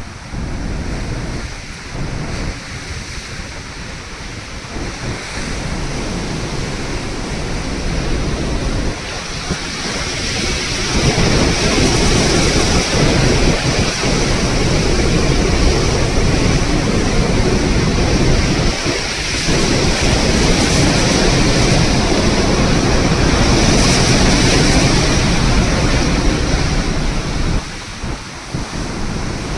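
Wind buffeting the microphone over the rush of the open sea. It grows louder about ten seconds in and eases near the end.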